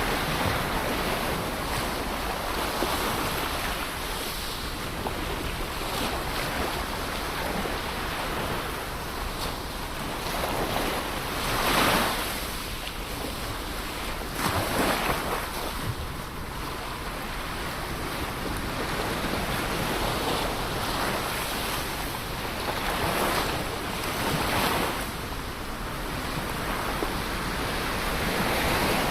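Ocean waves breaking and washing on the shore, a steady rushing surf that swells louder with individual breakers about a third of the way in, around halfway and near the end. Wind buffets the microphone.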